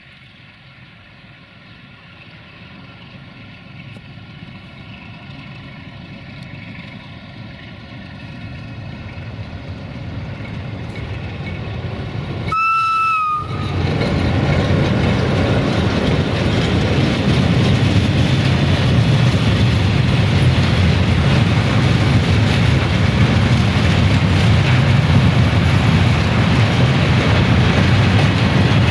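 A train approaching and growing steadily louder, sounding one short horn blast about halfway through, then passing close by loudly.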